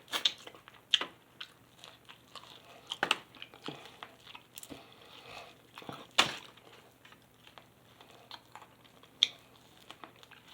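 A person chewing and biting food close to the microphone: irregular mouth clicks and smacks, with a handful of louder sharp bites spread through.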